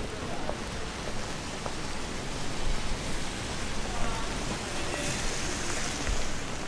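Steady hiss of rain on a city street, with faint voices of passers-by and a brief brighter hiss about five seconds in.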